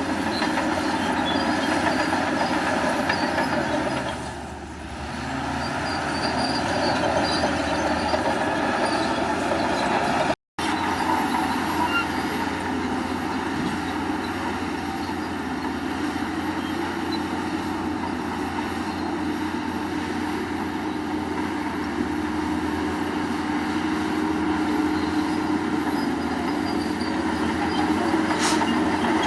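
Crawler bulldozer working: its diesel engine runs steadily under load while its steel tracks clank and squeal. The sound briefly cuts out about ten seconds in.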